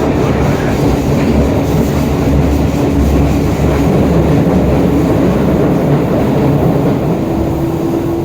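Hokuso 7300-series electric train with GTO-VVVF traction running steadily along the track: an even wheel-and-rail rumble with a faint steady hum. A higher steady tone comes in about seven seconds in.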